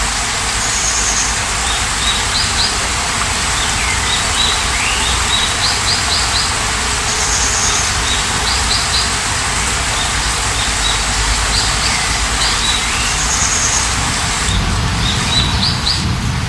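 Steady rain hiss with birds chirping over it: short trills, a high whistle and downward-swooping calls, the same phrase of calls coming round about every six seconds.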